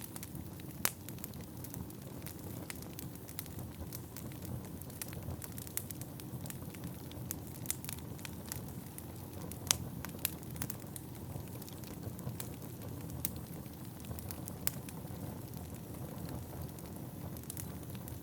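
Wood fire burning in a fireplace: a steady low rumble of flames with frequent sharp crackles and pops, the loudest pops about a second in and near the middle.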